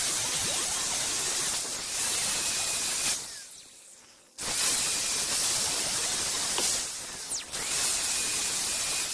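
Angle grinder with a grinding wheel grinding the cutting edge of a steel lawn mower blade at an angle: a steady abrasive hiss over a faint high whine. About three seconds in the grinding dies away, then starts again abruptly about a second later.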